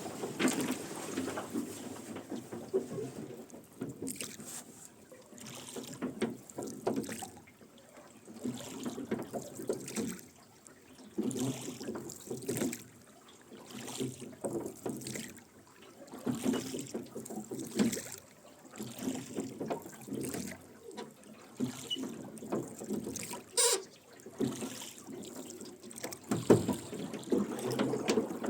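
Wooden oars rowing a rowboat, about one stroke every two seconds: the oars splash and drip water and the oarlocks creak with each pull. There is one sharp knock a little after the twenty-third second.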